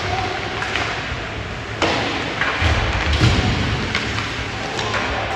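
Hockey game play in an arena: several sharp knocks and thuds of the puck and players hitting the rink boards, the loudest about two seconds in, over the hall's steady background noise.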